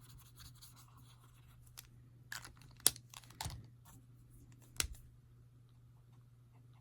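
A few sharp clicks and light taps of craft supplies being handled on a desk, with some paper rustle, over a faint steady hum.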